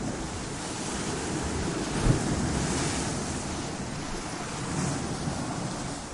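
Ocean waves surging and crashing against rocks: a continuous rushing surf that swells and falls, with a sharp low thud about two seconds in and another swell near the end.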